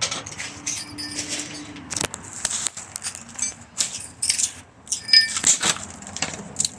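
Metal and plastic ceiling fan parts clinking and rattling as they are handled and knocked apart, in a string of irregular clicks and clatters.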